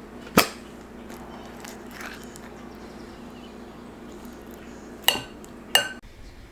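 Three sharp clinks of hard objects with a short ring, one about half a second in and two close together near the end, over a steady low hum.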